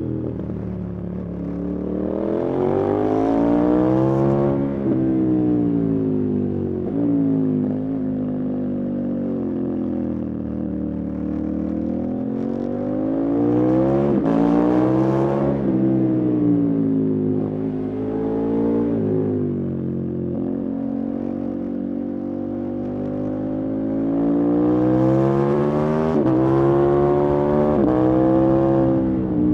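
Motorcycle engine under way, its note climbing under throttle and dropping sharply several times, in three main surges about two, fourteen and twenty-six seconds in.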